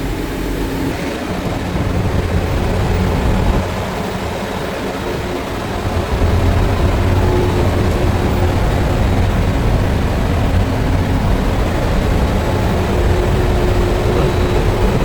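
Steady, loud machinery noise of a ship's engine room, a low drone with a hum under it, growing heavier in the low end about six seconds in.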